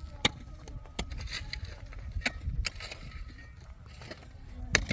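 About five sharp knocks at uneven intervals over a steady low rumble, the loudest near the end.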